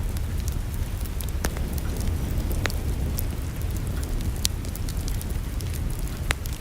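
Wood fire crackling in a fireplace: a steady low rumble with many small crackles and a few louder sharp pops.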